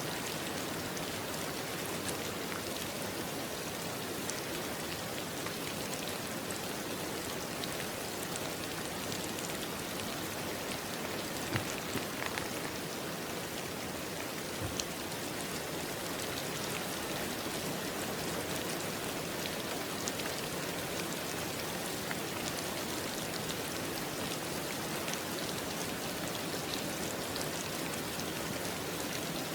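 Steady rain falling on a surface, an even hiss with scattered drop ticks and a few slightly louder drips.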